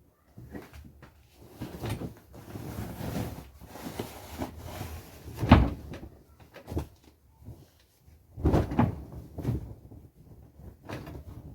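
Bedding being handled as a bed is made: irregular rustling with soft knocks and bumps. The sharpest knock comes about five and a half seconds in, and another cluster of rustling and bumps comes near nine seconds.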